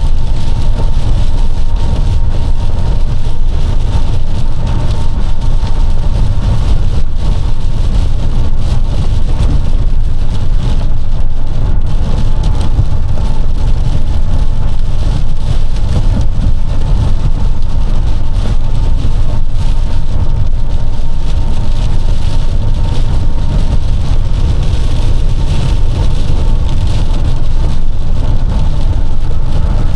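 Box truck driving on the highway in heavy rain and strong wind, heard from the cab: a steady, loud low rumble of engine and road noise with rain and wind noise over it.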